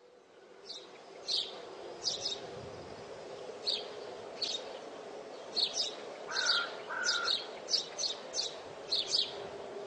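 Small birds chirping: short, high chirps repeating irregularly and growing more frequent in the second half, with two brief lower notes about two-thirds through, over a steady low hum.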